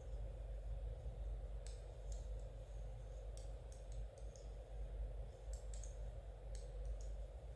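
Knitting needles clicking lightly against each other as stitches are worked, in irregular small clicks, sometimes two or three close together, over a steady low hum.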